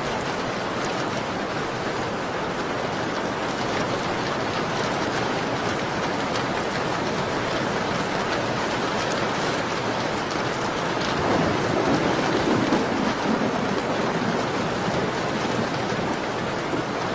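Steady rain pattering on a window pane, mixed with the small crackles of a wood fire. The rain swells louder for a couple of seconds about two-thirds of the way through.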